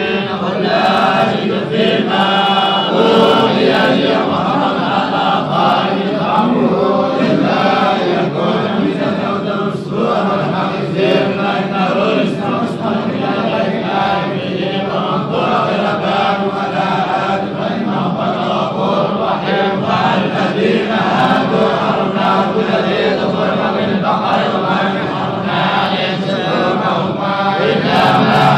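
Quran recitation chanted aloud in Arabic: continuous melodic chanting without a break.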